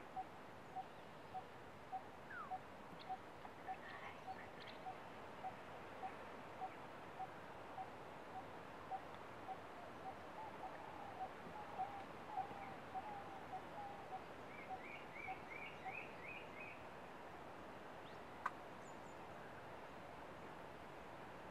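Birds calling: one bird repeats a single short low note about twice a second, stopping about two-thirds of the way through, while other birds add brief higher chirps. A faint steady hiss lies underneath.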